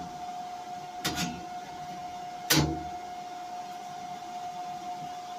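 A steady hum with two sharp knocks, about a second in and about two and a half seconds in; the second knock is the louder.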